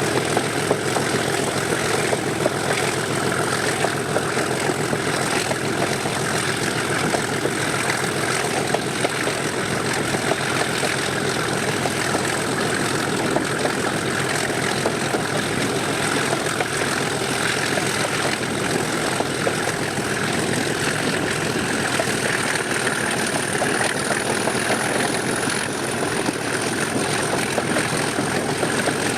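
English Electric 12CSVT V12 diesel engine of a Class 37 locomotive running steadily, heard from the train behind it, with a thin high whistle above it that rises slightly about three quarters of the way through.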